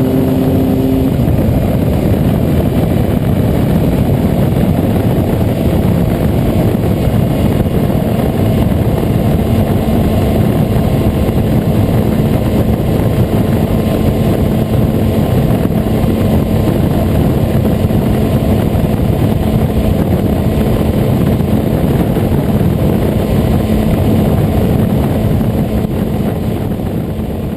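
Triumph Explorer XCA's three-cylinder engine through an Arrow exhaust, running at steady revs with a dense low rumble. A higher pair of tones drops out about a second in, and the sound fades near the end.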